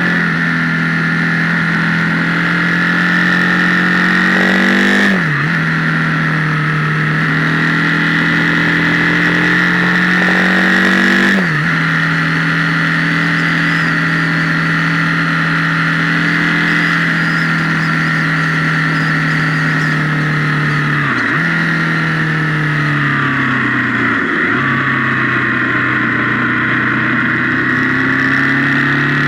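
Motorcycle engine pulling at steady revs on the road, its note dipping sharply and recovering four times as the revs drop, with a steady high whine over it. The sound is harsh and overdriven, as if played through a guitar amp, because of the camera's microphone.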